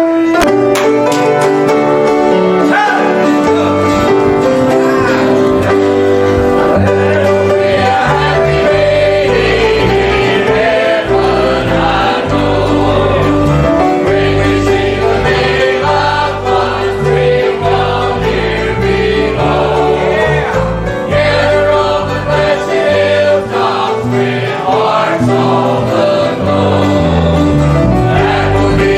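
Congregation or choir singing a gospel hymn with instrumental accompaniment.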